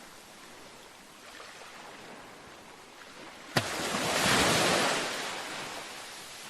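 Ocean waves on a beach: a low steady wash, then a wave breaks a little over halfway in, starting with a brief sharp crack, swelling loud and fading as it draws back.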